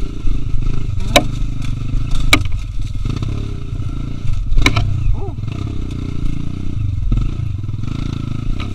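Trail motorcycle engine running steadily under way, with a few sharp knocks and rattles, three of them loud, in the first five seconds.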